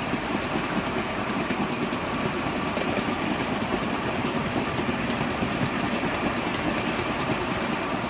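Narrow-gauge sugar cane train on the move: the locomotive's diesel engine running steadily with the cane wagons rattling and clicking over the track.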